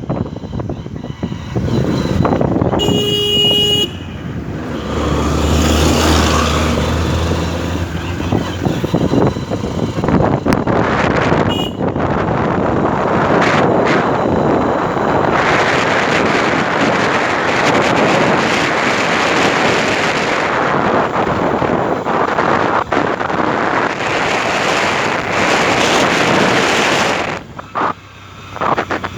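Wind buffeting the microphone and road noise while riding a motorcycle on the road, with a vehicle horn honking once, briefly, about three seconds in.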